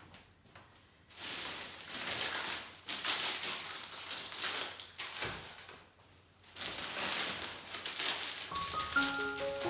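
Rustling and handling noises in three bursts of a couple of seconds each, like items or packaging being moved about; a few notes of music start near the end.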